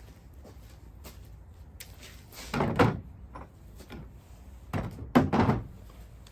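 A few dull thumps and knocks in two short clusters, about two and a half and five seconds in.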